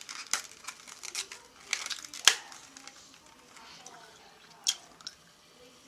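Close mouth sounds of someone chewing a bubblegum egg, with a few sharp crunching clicks, the loudest a little over two seconds in.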